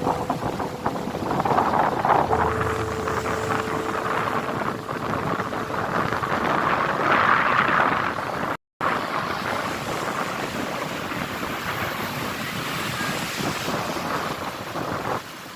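Strong wind buffeting the microphone over surf on the beach, a dense rushing noise that surges louder about two seconds in and again around seven seconds. The sound cuts out for a split second a little past halfway.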